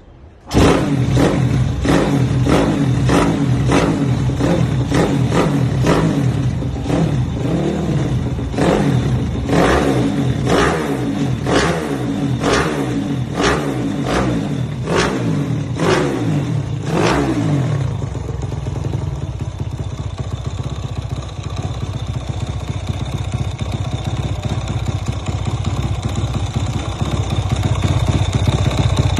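Honda Astrea GLX with a Takegawa 138cc engine and dry clutch, starting up and revved in quick repeated throttle blips, about one and a half to two a second. After about seventeen seconds it settles into a steady idle.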